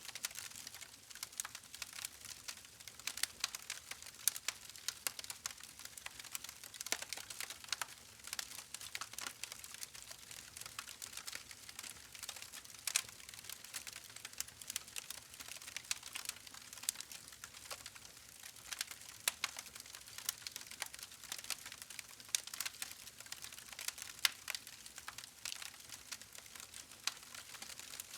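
Wood fire crackling and popping: a dense, irregular run of sharp snaps over a soft hiss.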